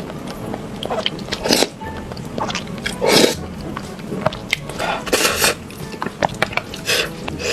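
Close-miked crunchy biting and chewing from a mukbang, with several loud bites about every second and a half to two seconds and small crackling clicks between them, over background music.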